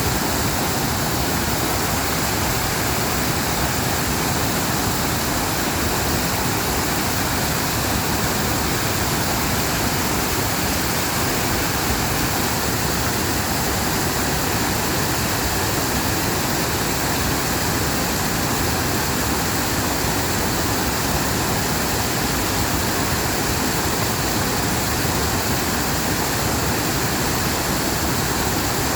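Water in a mountain valley stream rushing steadily, a constant even hiss with no break or change.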